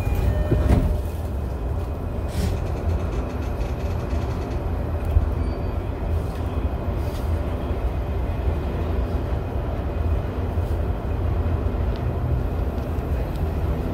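Steady low rumble inside a JR Chuo Line Rapid commuter train as it leaves the station and gets under way, with a brief louder clatter about a second in.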